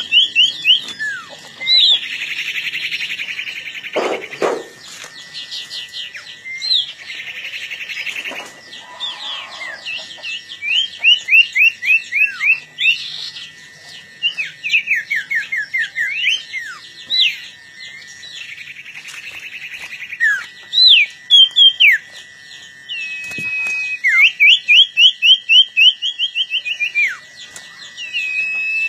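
Sirtu songbirds singing hard at each other in a provoked contest: quick runs of sharp down-slurred whistles and trills, broken by several harsh, buzzy chatters. A steady thin tone sounds beneath the birds.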